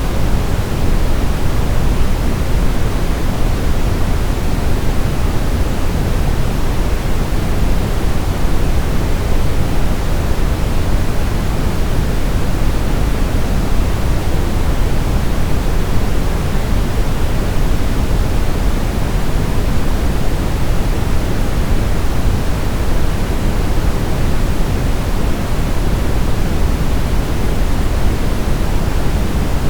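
Brown noise: a steady, even hiss weighted heavily toward the low end, like a deep rumble with no changes or events.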